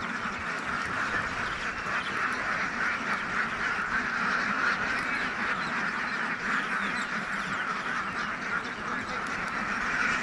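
A large flock of ducks quacking together in a dense, continuous din.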